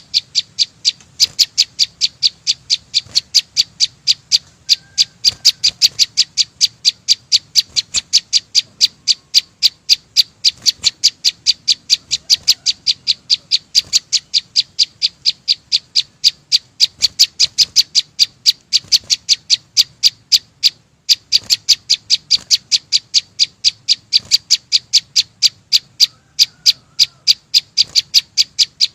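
Chim sâu xanh, a small songbird, giving a long run of short, high chip notes at an even pace of about three a second, pausing briefly about three-quarters of the way through before carrying on.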